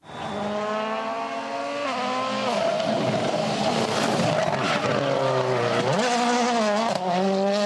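A rally car engine working hard. Its pitch climbs, drops back at the gear changes, then climbs again, with one sharp drop about six seconds in. It starts abruptly with a cut.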